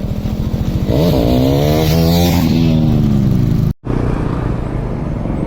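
KTM Duke 390's single-cylinder engine pulling under acceleration: its pitch rises about a second in, then eases back down. The sound cuts out for an instant a little under four seconds in, then the engine runs on steadily.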